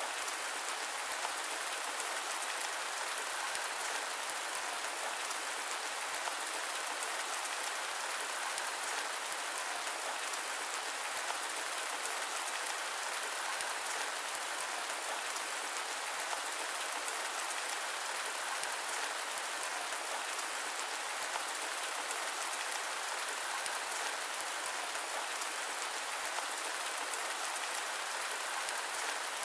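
Steady rain, an even hiss of falling drops that holds unchanged throughout.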